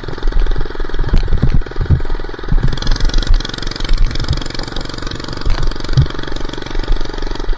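Minibike engine running steadily while riding, with irregular low thumps mixed in.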